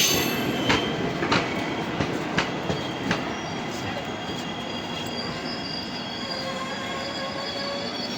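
Train running on the rails: a few sharp knocks from the wheels in the first three seconds over a steady rumble, then the rumble goes on with faint high-pitched wheel squeals.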